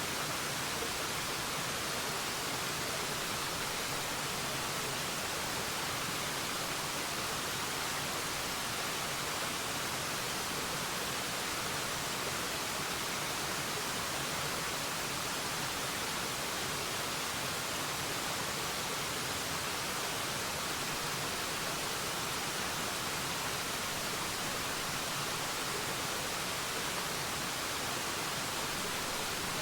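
Forest waterfall, water falling and splashing in a steady, even rush with a hiss that sits mostly in the high range.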